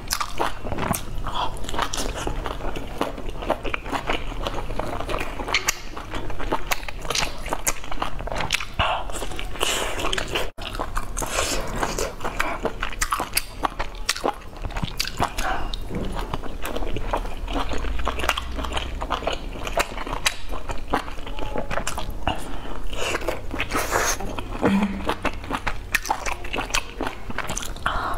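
Close-miked biting and chewing of boiled dumplings dipped in sauce: a continuous run of many small mouth clicks and smacks. It cuts out for an instant about ten seconds in.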